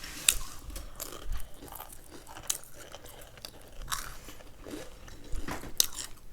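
Close crunching and chewing of crisp snack food, with sharp crackles every second or so, loudest near the end.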